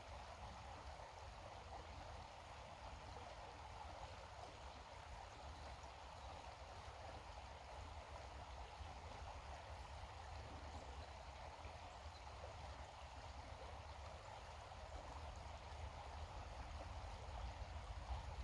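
Faint, steady rushing of water outdoors, with a low rumble underneath.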